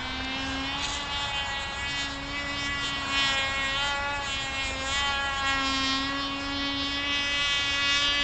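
Cox Tee Dee .051 two-stroke glow engine on an RC model plane in flight, buzzing steadily at full throttle, its pitch drifting up and down as the plane moves through the air.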